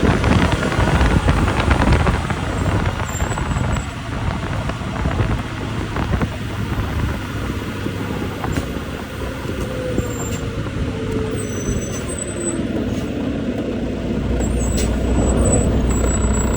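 Steady vehicle road and engine noise while driving on a snowy road. About halfway through, a tone slowly falls in pitch, and near the end a deeper rumble grows.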